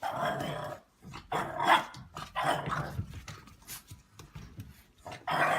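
A dog barking in a run of short separate bursts, loudest over the first three seconds, with another burst near the end.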